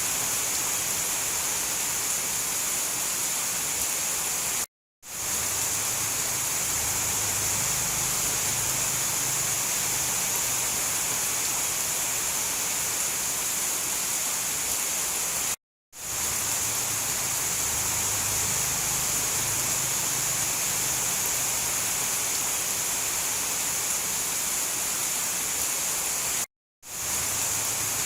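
Recorded tropical rainforest rain ambience, a steady dense hiss that is strongest high up. It cuts to silence for a fraction of a second three times, about eleven seconds apart, and each time fades quickly back in, like the joins of a looped track.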